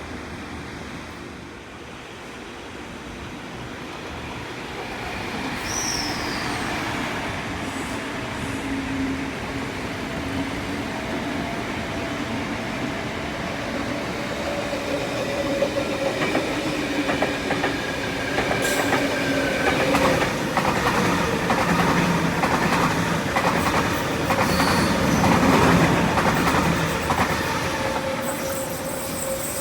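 A train passing on the line, growing louder over the first several seconds, with brief high wheel squeals and, in the second half, a dense run of wheel clicks over rail joints.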